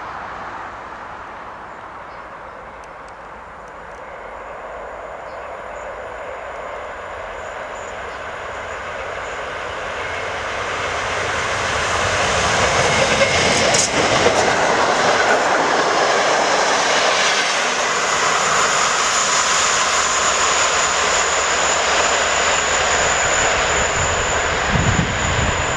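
Electric-locomotive-hauled intercity passenger train approaching and passing on the line: the rumble of wheels on rail swells steadily and is loudest from about halfway through. A steady high tone joins in the second half.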